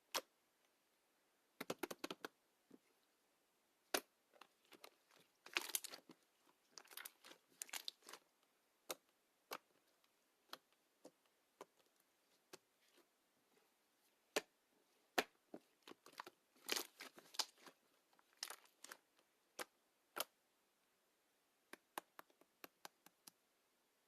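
Slime being worked by hand: scattered sharp clicks, small pops and short crackly clusters, with quiet gaps between them.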